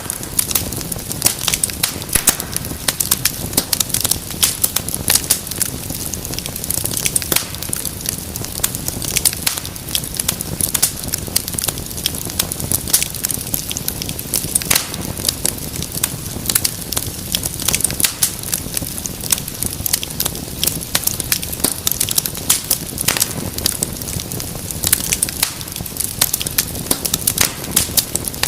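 Wood fire in a fireplace crackling steadily: many sharp irregular pops and snaps over a low rumble of burning.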